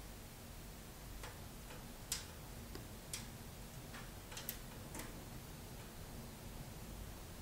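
Wood fire crackling in a fireplace: irregular sharp pops and snaps over a low steady background, the loudest pop about two seconds in.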